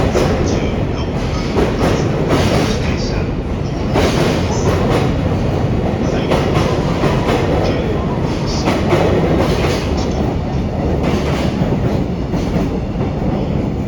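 A freight train of container wagons rolling through the station at speed, its wheels clacking steadily over the rail joints.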